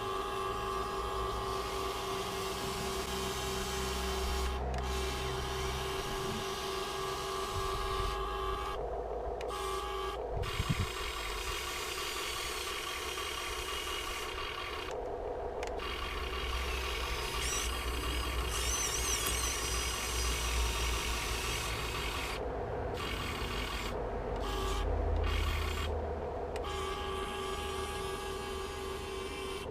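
The electric motors and metal gearing of a Huina 1580 all-metal RC excavator run with a steady whine and a low rumble. The motors cut out and start again about eight times as the controls are worked.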